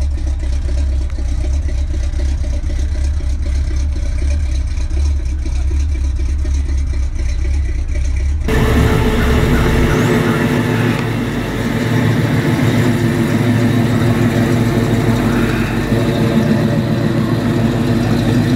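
A steady low rumble for the first eight seconds or so, then, from a sudden change, a Chevrolet Nova SS's V8 engine running as the car pulls slowly past and away.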